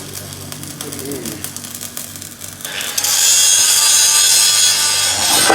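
Workshop power tool working metal: faint clicking at first, then about three seconds in a loud, steady, hissing high-pitched machine noise starts and keeps going.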